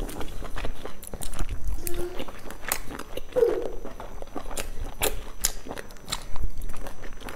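A person chewing and biting into meat-filled dumplings, heard close up through a clip-on microphone: a run of sharp, irregular mouth clicks.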